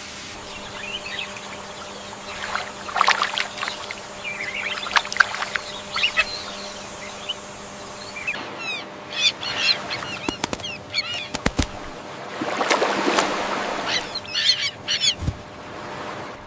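Birds calling: many short chirps and squawks scattered irregularly, over a faint steady hum, with a louder noisy burst about three quarters of the way in.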